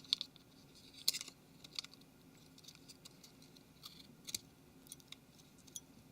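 Faint, scattered clicks and taps of small plastic and metal phone parts being handled: the Nokia Lumia 720's main board laid back onto its frame. The strongest cluster comes about a second in.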